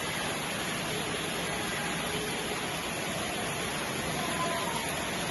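Steady rain falling: an even hiss with no breaks or separate drops.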